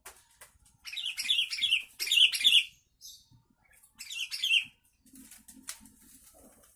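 Sooty-headed bulbul singing: a run of quick, bubbling up-and-down notes lasting about two seconds, then a shorter phrase about four seconds in.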